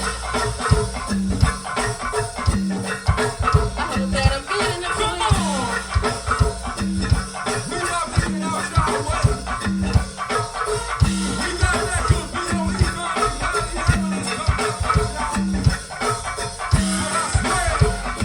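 Live band playing a steady percussion-driven groove: drums with a rattling shaker and a repeating bass line.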